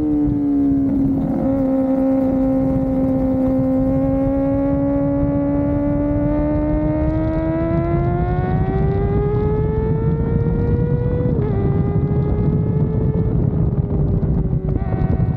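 Kawasaki ZX-4RR's 399 cc inline-four engine running at high revs under load. Its pitch climbs slowly for about ten seconds, then drops suddenly at an upshift and eases on, over a steady rush of wind.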